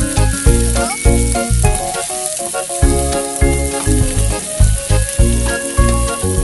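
Sliced onions and tomatoes sizzling as they fry in a frying pan and are stirred, under background music with a steady beat whose bass drops out for about a second near the middle.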